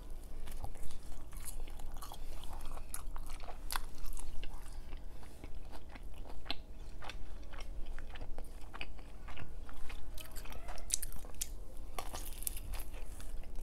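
A person biting into and chewing pizza close to the microphone: a run of short, irregular crackling clicks from the mouth.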